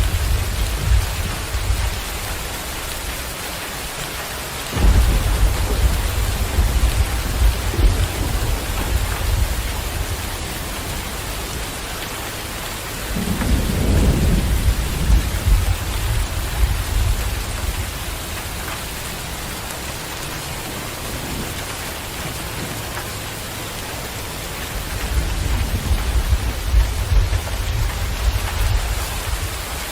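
Steady heavy rain with rolling thunder: deep rumbles swell up about five seconds in, again around thirteen seconds in, and near the end, each rolling on for several seconds.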